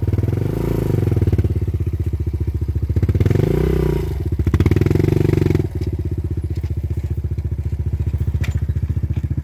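Dual-sport motorcycle engine revving up and back down twice as the bike is ridden off a rock on a rough trail, then settling to a lower, steady chug.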